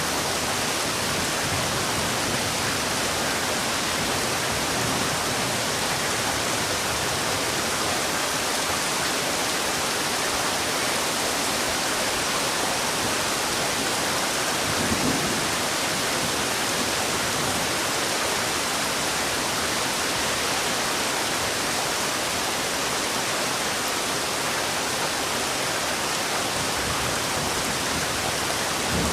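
Heavy rain falling steadily, a dense, even hiss with no let-up. About halfway through there is a brief low rumble.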